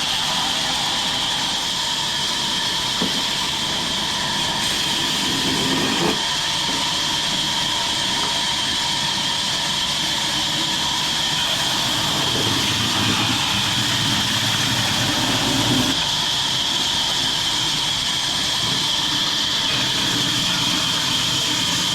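Chainsaw cutting a tree, its engine running steadily with a high, even whine throughout.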